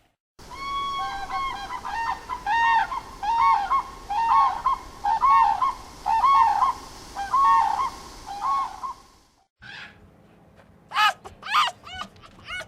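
A bird honking repeatedly, a long series of short calls at about two a second. After a brief pause, a run of quick, high sweeping chirps begins near the end.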